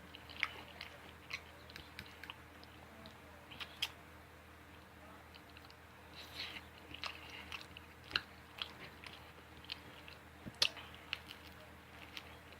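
A person eating close to the microphone: chewing and biting food, with irregular short wet clicks and smacks of the mouth.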